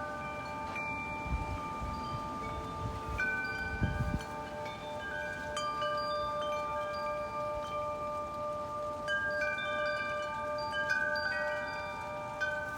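Wind chimes ringing continuously in strong gusty wind, many tubes struck again and again with overlapping, sustained tones, and low wind rumble on the microphone about a second and a half in and again near 4 seconds.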